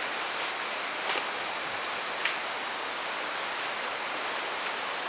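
Steady static-like hiss, with a couple of faint short ticks about one and two seconds in.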